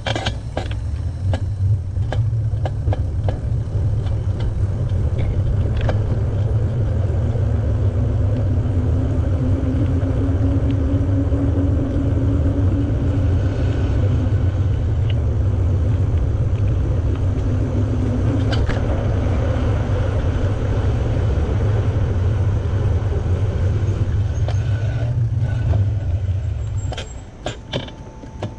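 Steady low wind rumble on the microphone from a moving bicycle, with scattered clicks. It dies away near the end as the bike comes to a stop.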